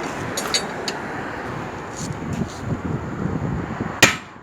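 Steady rumble with a few light metal clicks in the first second, then one loud, sharp metal strike about four seconds in: a hammer blow on a chisel or truck wheel rim while a tyre is worked off a split rim.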